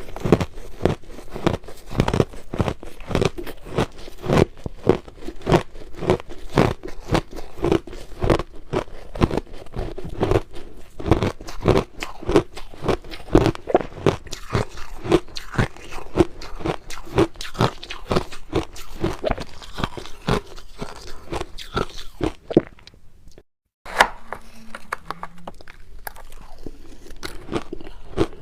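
Close-up crunching of crushed ice dusted with milk powder being bitten and chewed, in rapid crunches several times a second. It stops for a moment about three-quarters of the way in, then resumes more softly.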